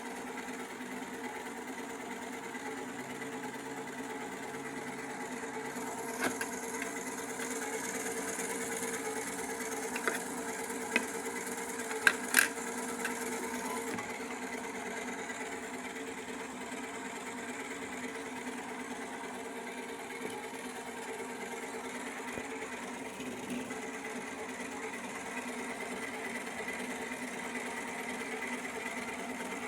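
Toy washing machine's small electric motor running steadily with a level hum, water in its tub. A few sharp clicks come near the middle, with a hiss underneath.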